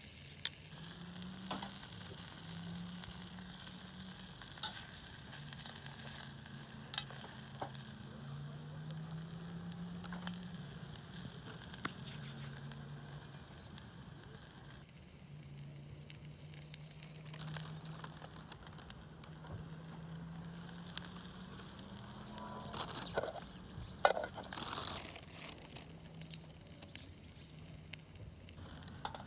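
Wood campfire sizzling and crackling under a pot of rice, a steady hiss with scattered sharp pops. A faint low hum wavers underneath, and louder rustling and knocks come near the end.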